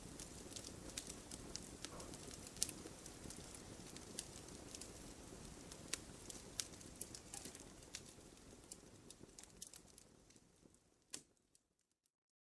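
Wood fire crackling, with frequent sharp pops and snaps over a low, steady rumble of burning. The sound fades away about ten seconds in, ending in a last pop and a brief silence.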